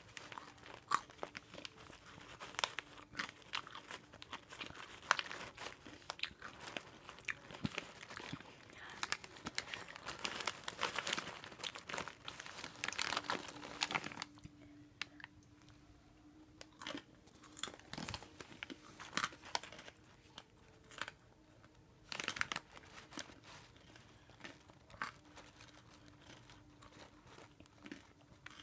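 Close-up crunching and chewing of Hot Cheetos, a dense run of crisp crackles for about half the time, then slower, sparser crunches.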